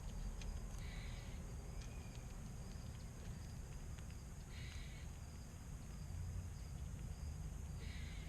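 Faint outdoor ambience: a steady low rumble and a thin steady high tone, with light scattered clicks. There are three short raspy sounds, about a second in, just before the five-second mark, and near the end.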